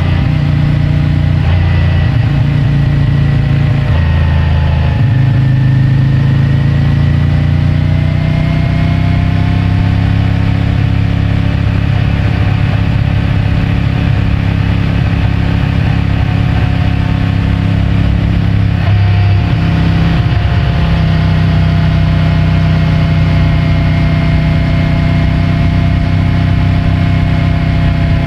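CFMOTO 450MT's parallel-twin engine running under way at a steady cruise, with the engine note stepping in pitch a few times, about five seconds in and again around twenty seconds in.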